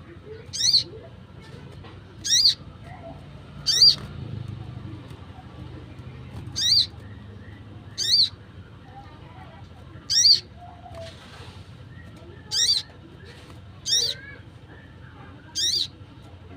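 Wild sogon, a small sunbird-family bird, calling: a short, shrill, rapidly wavering call repeated nine times, one every one and a half to two and a half seconds. This is the kind of call used as a lure for catching the bird.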